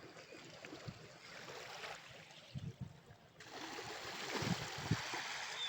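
Sea water washing over sand at the shoreline, rushing and trickling as a wave runs up and drains back. About halfway through the rush changes suddenly and grows louder, with a few low thumps.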